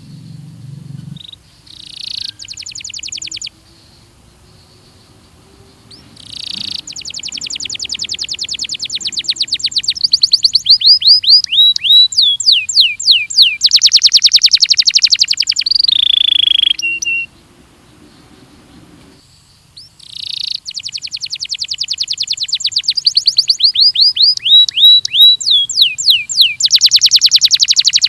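Belgian canary singing: two long bouts of fast trills of repeated notes, some rolling runs and others quick falling sweeps, with a short phrase about two seconds in and a brief pause between the bouts.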